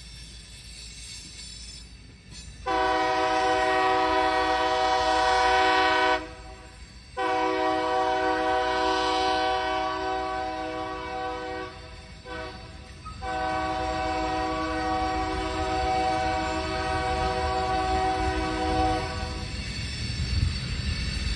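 Locomotive air horn sounding the long, long, short, long grade-crossing signal: two long blasts, a brief short one, and a final long blast about six seconds long. Near the end the low rumble of the approaching train rises.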